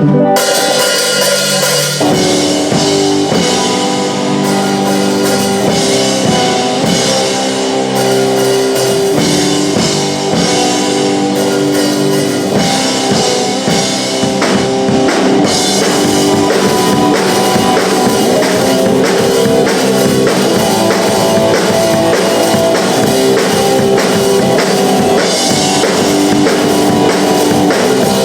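Punk rock band playing live, electric guitars and a drum kit at full volume, with the drums coming in at the start.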